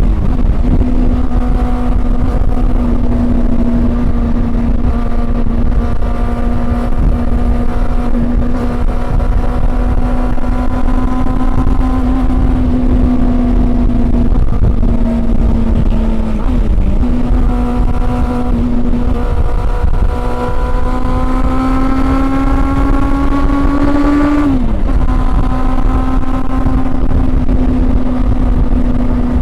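Honda CB400 Super Four's inline-four engine under way, heard from on the bike. The note holds fairly steady with two brief dips, then climbs gradually for about five seconds and drops abruptly about 25 seconds in before settling back. Low wind rumble runs underneath.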